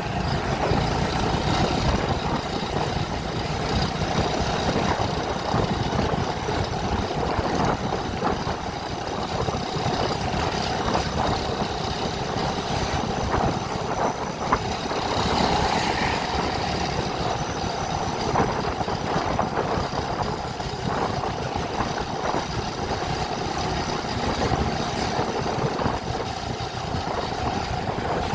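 Steady engine and road noise of a vehicle on the move, with scattered light knocks and rattles.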